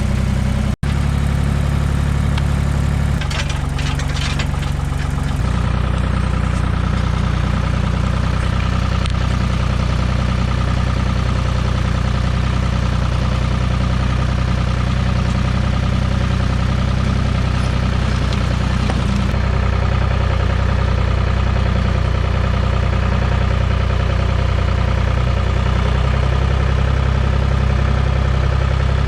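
Farm tractor engine running steadily at a low, even pitch, with abrupt shifts in tone about three and five seconds in.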